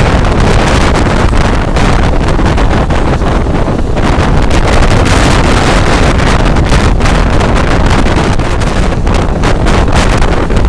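Heavy wind buffeting the microphone over the steady rumble of a passenger train running at speed.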